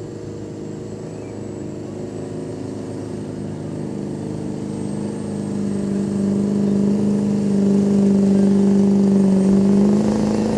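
Pulling truck's engine running hard and steady under load as it drags the weight sled, growing louder over the last few seconds, then dropping off at the end as the pull finishes.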